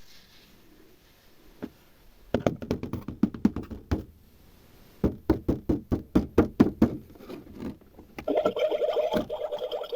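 Small toy-kitchen pieces being tapped and knocked together: a quick cluster of light knocks, then an even run of about three taps a second. From about eight seconds in, a steady rushing sound takes over.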